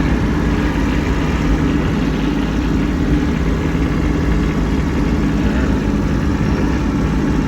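Kubota B2601 compact tractor's three-cylinder diesel engine running steadily, with no change in speed.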